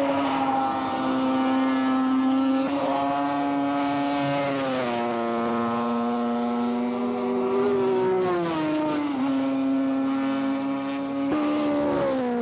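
Superbike racing motorcycle engine at high revs, its note climbing slowly and then dropping abruptly about four times as it shifts gear.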